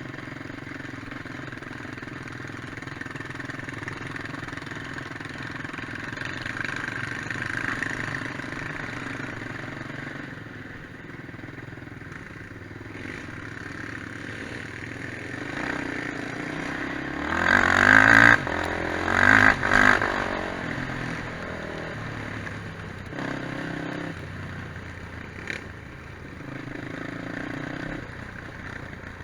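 Quad bike engines running over rough ground. About two-thirds of the way through, two loud revving surges rise and fall in pitch as a quad is pushed hard close by.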